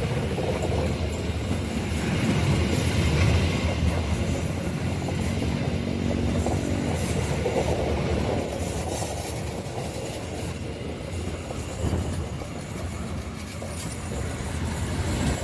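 A train running over a railway bridge: a steady rumble of wheels and carriages on the track. A low, steady pitched note joins in briefly about five seconds in.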